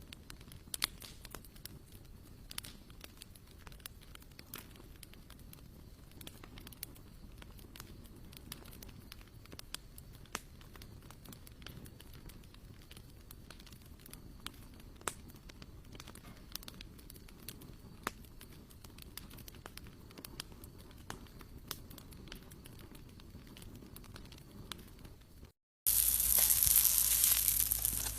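Wood fire crackling softly, with scattered sharp pops and ticks over a low rumble. About 26 seconds in, the sound cuts to loud, steady sizzling of food frying in a hot pan.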